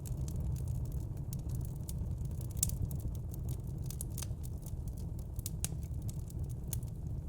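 Wood fire in a fire pit crackling, with frequent sharp irregular pops and snaps over a steady low rumble.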